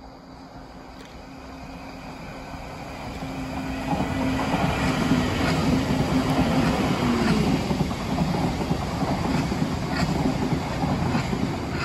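Electric multiple-unit train approaching and passing, growing louder over the first four seconds into a steady rush of wheels on rail. A hum runs through it and drops in pitch about seven seconds in as the train goes by, and the wheels click several times over rail joints.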